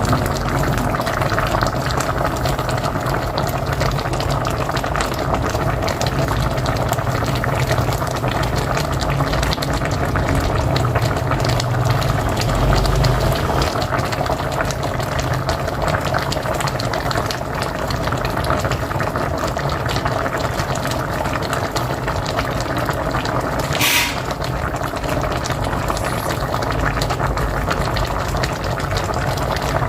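A pot of mocotó (beef feet) boiling steadily on a wood-fired stove, a continuous dense bubbling. A brief hiss about four-fifths of the way through.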